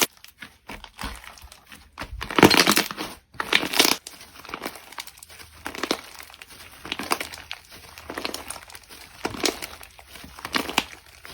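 Particle slime being squeezed and pulled by hand, giving irregular crinkly, crackling squishes, the loudest stretch about two to three seconds in.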